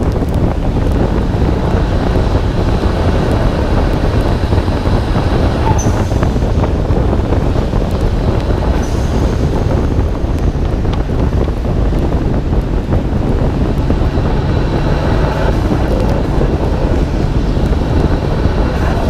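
Steady rumble of wind and wet-road noise on a hood-mounted microphone on a moving Nissan Skyline R32 GT-R, with the car's twin-turbo straight-six engine running underneath.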